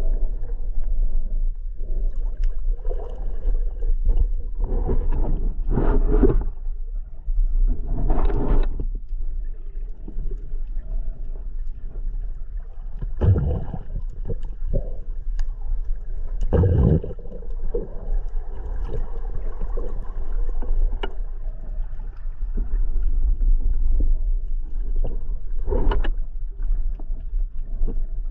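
Sound picked up by a camera underwater: a steady low rumble of water against the housing, with louder rushing bursts every few seconds, irregularly spaced.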